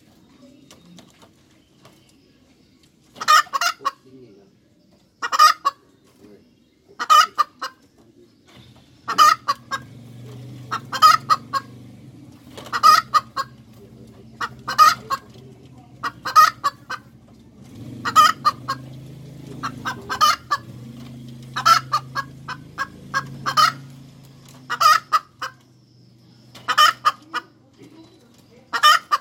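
Hen cackling: short, sharp bouts repeated about every two seconds, starting about three seconds in.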